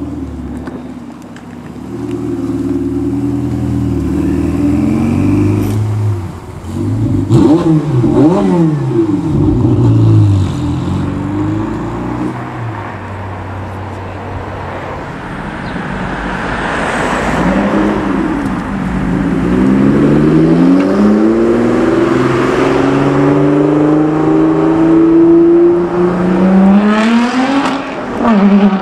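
Ferrari 488 Pista's twin-turbo V8 revving hard and accelerating away. The engine pitch climbs and drops again and again through the gear changes, with a long rising run of revs near the end.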